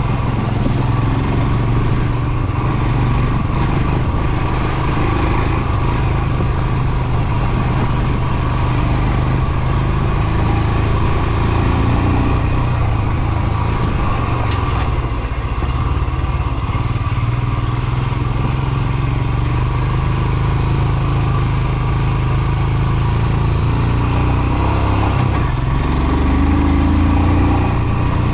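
Royal Enfield Himalayan 411's single-cylinder engine running steadily while the motorcycle is ridden, with the engine note changing near the end.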